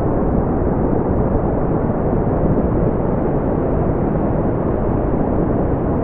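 Steady brown noise: an even, deep rumbling hiss with most of its energy in the low end and little above the mid-range, unchanging throughout.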